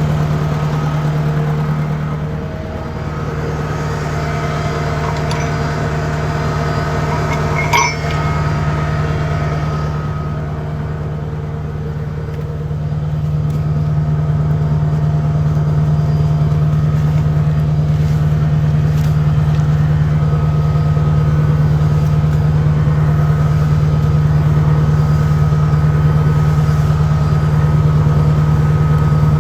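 Compact track loader's engine running steadily under varying load, its level dipping and rising twice. A single sharp click sounds about eight seconds in.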